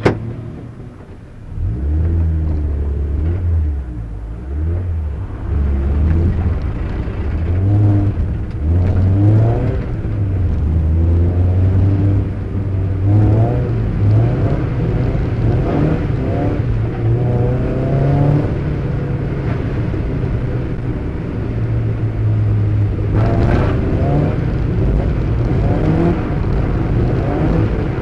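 Mazda MX-5 Eunos Roadster's four-cylinder engine, heard from inside the cabin, revving hard and falling back again and again as the car is drifted. A sharp click comes right at the start, and the engine comes in loud about a second and a half in.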